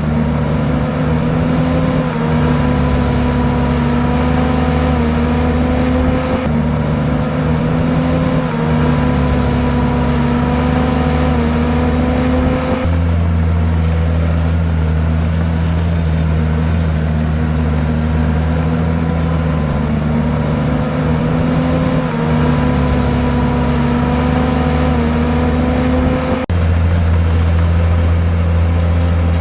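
Komatsu bulldozer's diesel engine running under load as it pushes rock and soil. The engine note dips and recovers over and over and shifts abruptly a few times.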